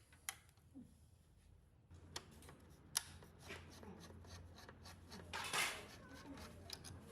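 Scattered small clicks and handling noises, as of parts and tools being worked at a bench. A low hum comes in about two seconds in, and a short hiss is the loudest sound, about five and a half seconds in.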